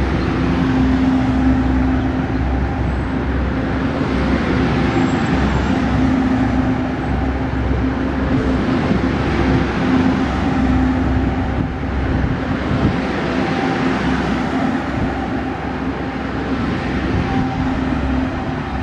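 Passenger coaches of a departing Taiwan Railways Chu-Kuang Express rolling past at low speed: a steady rumble of wheels on rail with a continuous hum underneath. The last coach passes near the end.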